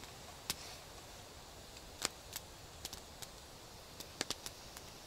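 Campfire of burning wood crackling: irregular sharp pops and snaps, a few close together about four seconds in, over a faint hiss.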